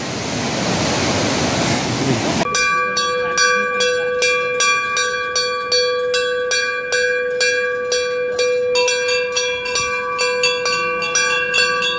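Rushing river water, cut off about two and a half seconds in by metal temple bells struck over and over at a steady quick pace, several bells of different pitch ringing together.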